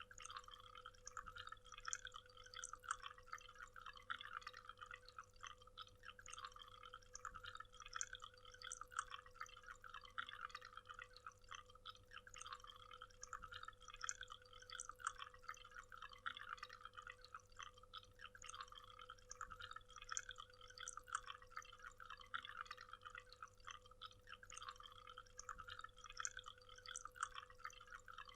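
Faint waterfall: water splashing and trickling in many small drips, with a steady hum underneath. The pattern repeats about every three seconds, like a short recording looped.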